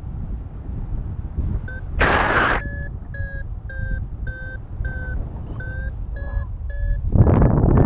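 Paragliding variometer beeping, short steady beeps at about two a second: the climb tone that signals the glider is in rising air. Wind rumbles on the microphone throughout, with a brief gust of noise just before the beeps start and louder wind buffeting near the end.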